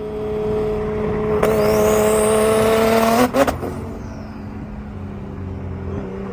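Car engine held at steady revs; about one and a half seconds in it gets louder with a high whine rising in pitch, then drops back suddenly a little after three seconds to a steady lower hum.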